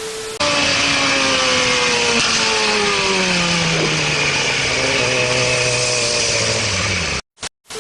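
A motor or engine running hard and noisily, its pitch falling slowly and steadily as it winds down, cut off abruptly near the end. A brief steady tone sounds just before it starts.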